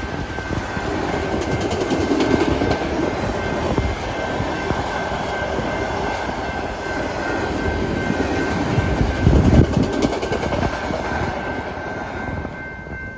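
Freight train passing close by: a steady rolling rumble and rattle of railcars on the rails, swelling briefly past the middle and easing off near the end.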